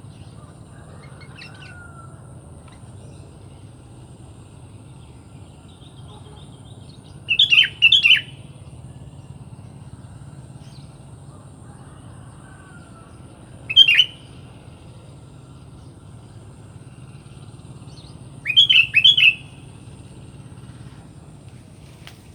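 Sooty-headed bulbul (kutilang) calling in three short bouts of quick, bubbly notes, the first and last of two or three notes each and the middle one a single short call, over a steady low background hum.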